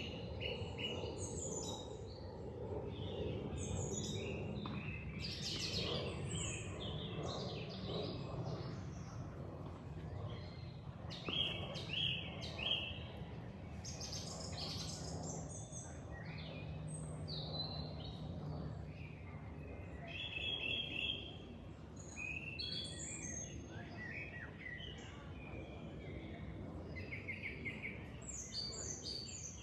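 Several small birds chirping and singing in short, quick phrases, over a steady low rush of flowing water.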